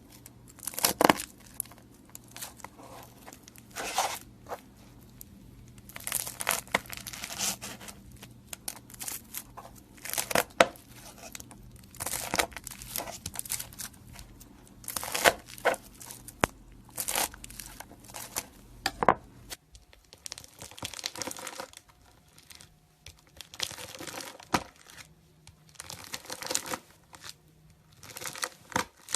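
A knife cutting and pressing into crunchy slime, giving runs of irregular crackling crunches with short pauses between them. A faint low hum underneath stops about two-thirds of the way in.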